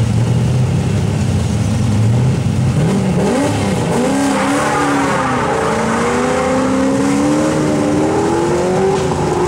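Hill-climb car's engine running steadily on the start line, then launching hard about three seconds in. Its pitch climbs, dips at a gear change about five seconds in, and climbs again as the car accelerates away.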